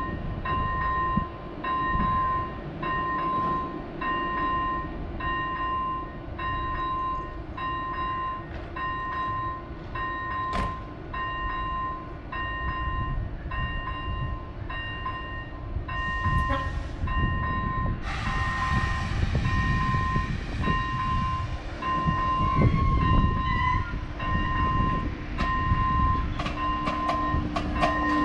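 RegioJet electric locomotive and its passenger coaches starting to pull out of the station, with a hiss that begins about two-thirds of the way through and a low hum that grows near the end. A high electronic beep repeats about once a second throughout.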